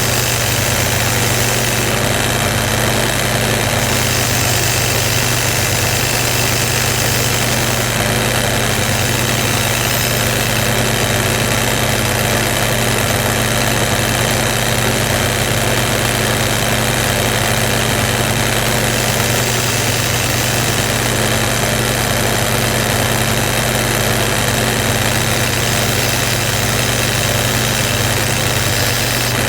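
Bench grinder or similar electric tool with a wire wheel running continuously while rusty suspension bolts are cleaned up: a steady motor hum with a constant scratchy hiss over it.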